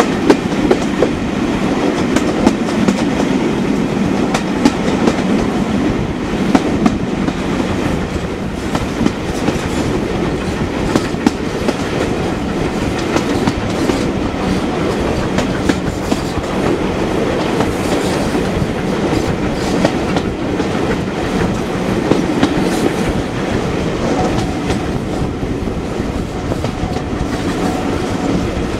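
Steam-hauled passenger train running at speed, heard from a carriage window: a steady rumble of the coaches with wheel clicks over the rail joints.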